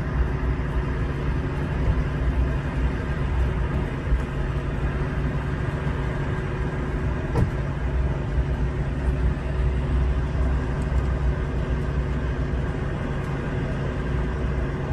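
Car engine idling steadily, a low even hum and rumble.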